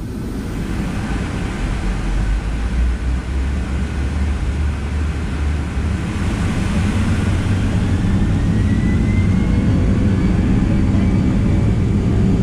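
Boeing 757's jet engines at takeoff power, heard from inside the cabin: a low rumble that grows steadily louder as the aircraft accelerates down the runway, with a faint rising whine partway through.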